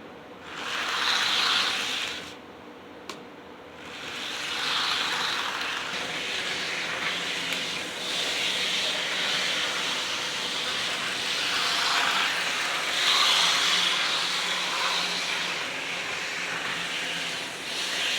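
Small electric model train locomotive, freshly cleaned and lubricated, running on its track with a whirring motor and wheel noise on the rails. It runs briefly, stops after about two seconds, a click sounds, then it runs on steadily from about four seconds in, swelling and fading in loudness.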